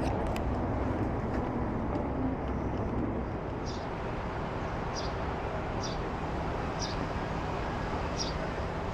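Triumph Speed Triple 1200 RR's three-cylinder engine running steadily with outdoor noise, without revving. From about four seconds in there are short high chirps, roughly once a second.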